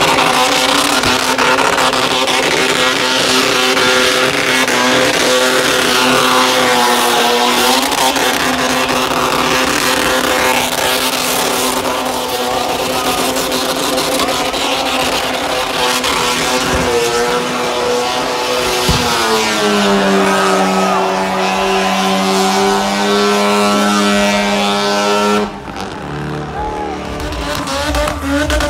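Burnout car's engine held at high revs while its rear tyres spin and smoke, the pitch holding steady with a few dips and shifts. About three-quarters of the way through, the engine briefly lets off, then picks up again near the end.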